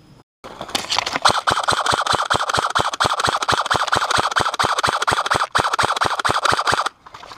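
Airsoft gun firing sustained full-auto, a rapid even train of shots, about six or seven a second, with a brief break about five and a half seconds in.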